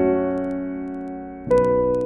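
Background music: slow piano or electric piano chords, a new chord struck about one and a half seconds in, each ringing and fading.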